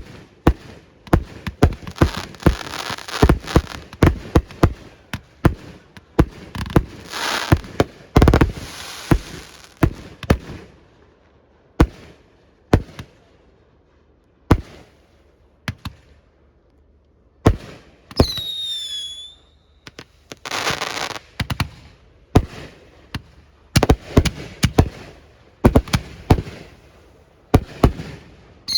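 Fireworks display: rapid sharp bangs of bursting shells with stretches of crackling, easing off briefly past the middle. About two-thirds of the way in, a whistle falls in pitch and then holds before the bangs pick up again.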